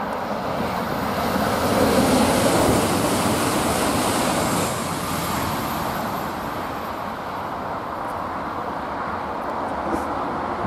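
Southeastern Class 395 Javelin high-speed electric train passing at speed, a rushing noise that swells to its loudest about two seconds in and cuts off abruptly about five seconds in. A steadier, lower background noise follows.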